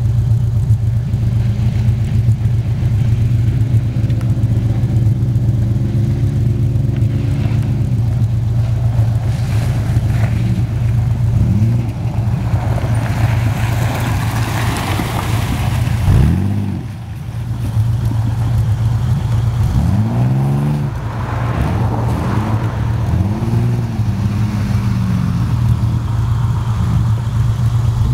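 SUV engine running and being revved repeatedly, its pitch rising and falling several times over a steady low drone, with a rush of noise about halfway through.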